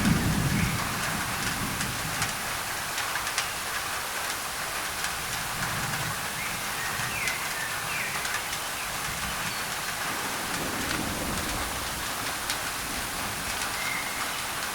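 Steady rain drumming on a thin tin roof. A low rumble of thunder starts right at the beginning and fades over a couple of seconds, with a weaker rumble later, and a few short faint bird chirps come in the middle.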